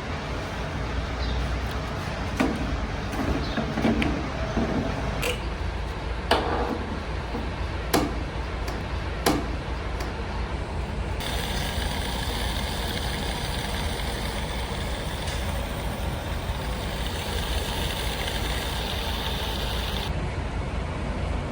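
Steady low vehicle engine rumble, with several sharp clicks and knocks in the first half and a steady hiss that starts about halfway through and stops suddenly near the end.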